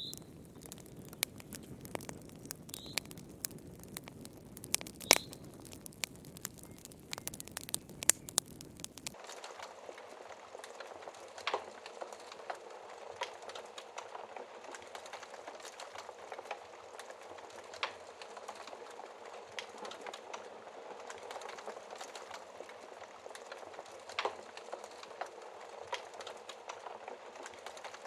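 Campfire crackling, with sharp pops and snaps over a steady hiss. About nine seconds in the sound changes abruptly: the low rumble drops away, leaving a thinner hiss while the crackling continues.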